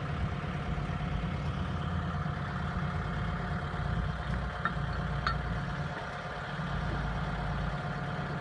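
Diesel engine of heavy machinery idling steadily, with a low hum, a faint steady whine above it and two light clicks around the middle.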